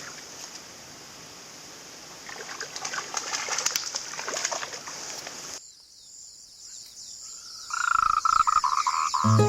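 A rushing outdoor hiss for about the first five and a half seconds, then a sudden cut to quiet and, near the end, a loud rasping animal call lasting about a second and a half. Guitar music starts right at the end.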